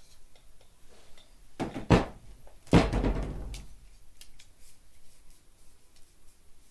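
Two loud knocks a little under a second apart, the second dying away over about a second, with faint ticking and scraping between.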